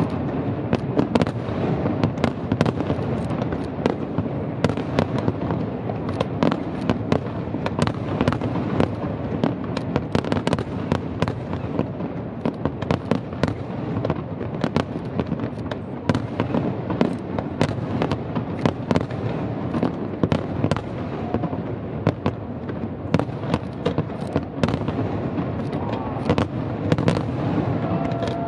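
Fireworks display going off: aerial shells bursting in an unbroken string of sharp bangs, several a second, over a steady rumble.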